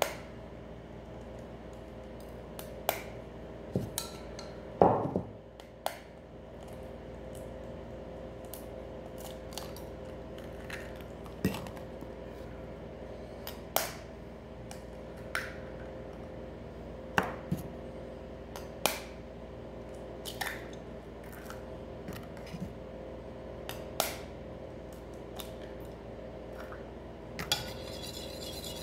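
A metal spoon tapping on raw eggshells to crack them: sharp single taps a second or two apart. Near the end the spoon starts beating the eggs in the bowl with quick, rapid clinks.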